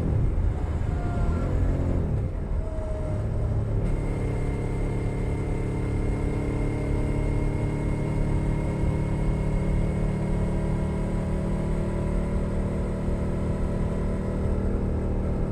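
Suzuki SV650 90-degree V-twin through a Leo Vince Nero exhaust, engine speed dropping off over the first few seconds as the throttle closes, then holding a steady low engine note.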